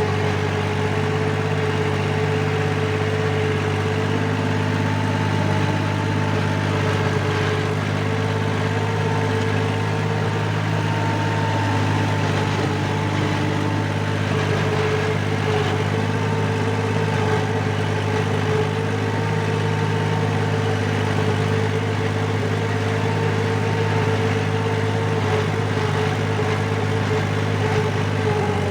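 Four-wheel-drive farm tractor engine running at a steady speed, a constant low drone with no revving.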